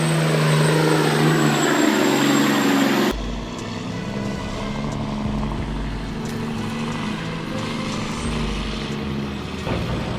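Engine of a timber-loaded semi-truck running under load on a steep climb, then a sudden cut about three seconds in to a lower, deeper truck engine rumble.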